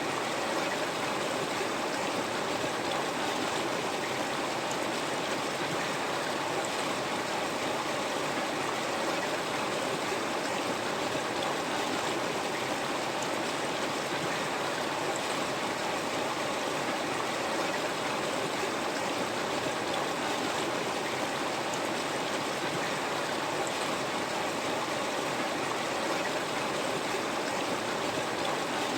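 River water flowing over stones, a steady rushing with a faint gurgle, unchanging throughout.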